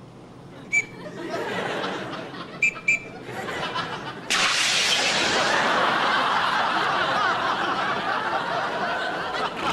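Studio audience laughter that swells from about a second in and breaks out loudly and suddenly about four seconds in, holding steady after. Three sharp clicks with a brief ringing tone come early, one about a second in and two close together near three seconds.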